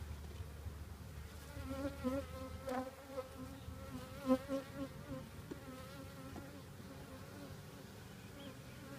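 Honeybees buzzing around an opened hive, their pitch wavering as bees fly close past, loudest in the first half, with a couple of light knocks. The colony is somewhat agitated by the inspection.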